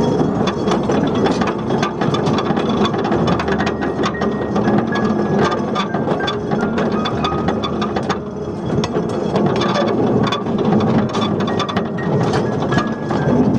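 A 2 ft gauge narrow-gauge train running along the track, with its wheels and running gear clicking and rattling over the rails.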